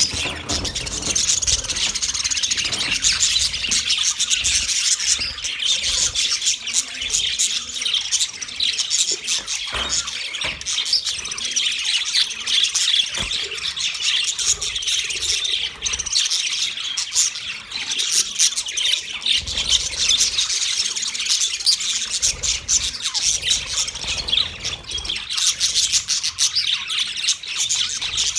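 A large flock of budgerigars chattering and chirping together, a dense continuous mass of overlapping warbles and squawks.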